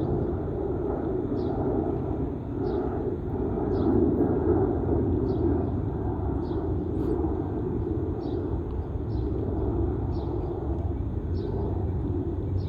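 Boeing 737-800 jet with CFM56-7B turbofans climbing away after takeoff: a steady low rumble of engine noise that swells and wavers. A faint short high chirp repeats about once a second over it.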